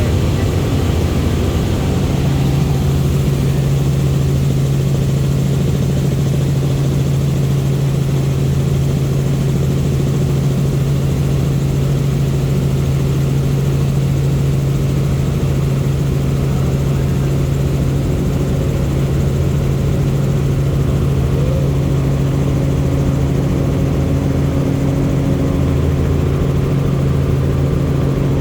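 Helicopter in flight: a steady, loud drone of rotor and engine, with a low hum that firms up about two seconds in and then holds.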